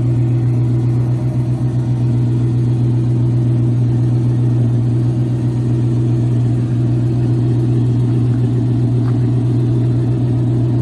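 1989 Chevy Caprice Brougham's engine idling steadily, an even low rumble from the exhaust.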